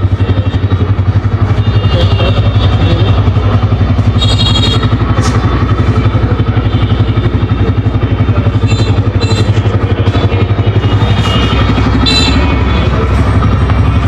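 TVS Raider 125's single-cylinder 125 cc engine running steadily at a constant speed, with a rapid, even exhaust pulse.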